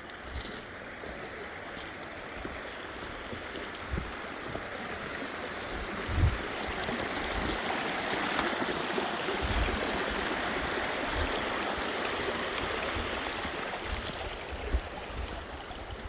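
Steady rushing of running water, as from a mountain stream, swelling louder about six seconds in, with a few short low thumps.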